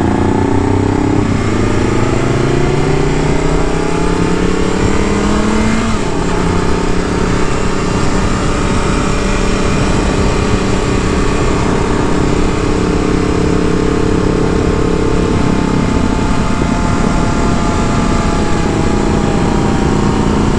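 Motorcycle engine under way: it pulls up in pitch for several seconds, drops sharply at a gear change about six seconds in, then holds a nearly steady cruising pitch, easing off slightly later on, over a constant rush of wind noise.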